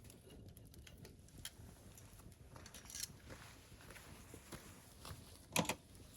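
Wood campfire crackling, with scattered small pops and a louder cluster of pops near the end.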